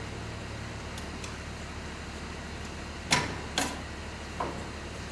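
A steady low engine hum, like a vehicle idling, with three sharp knocks: two close together about three seconds in and a lighter one about four and a half seconds in.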